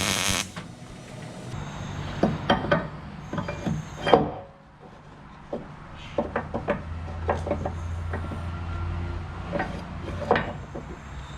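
Steel parts being handled and fitted: a string of irregular metal knocks and clinks, with a low hum for a few seconds in the second half.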